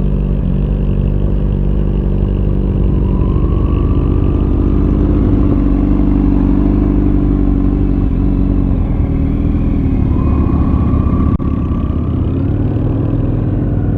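2004 Honda Shadow 750's V-twin engine running while riding, its pitch climbing twice as the bike pulls, with a brief dip in level about eleven seconds in.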